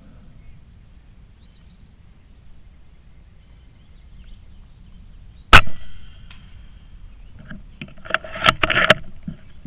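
A single shot from an FX Impact M4 PCP air rifle: one sharp, loud crack a little past halfway, a faint tick a moment later, then a quick string of metallic clicks and clacks near the end.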